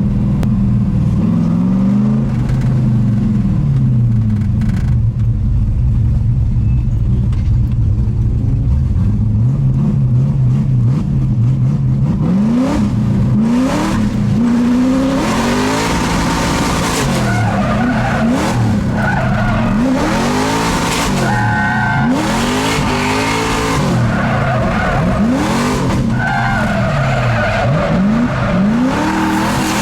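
Drift car's engine revving up and down over and over, with tyres squealing and skidding. The first part has slower swells in engine pitch. From about halfway in, the revs rise and fall roughly once a second and the tyre noise comes in bursts.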